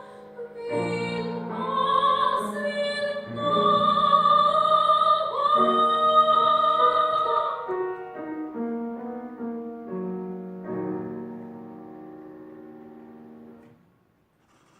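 Female operatic voice singing a romance over piano, ending on a long held high note about halfway through. The piano then plays on alone, and its final chord dies away near the end.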